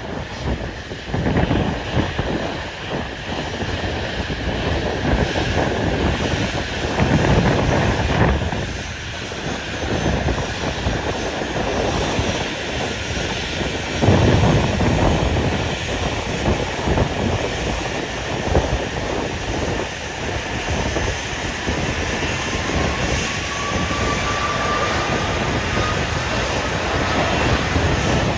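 Jet airliner engines running, mixed with heavy wind buffeting the microphone in gusts. A faint whine rises slowly in pitch in the second half.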